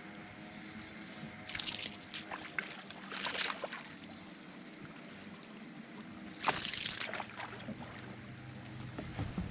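Water splashing and sloshing in three short bursts, about one and a half, three and six and a half seconds in, with a few smaller splashes near the end.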